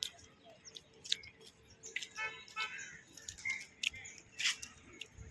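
Birds chirping in short, high calls scattered throughout, with a longer call of several tones about two seconds in.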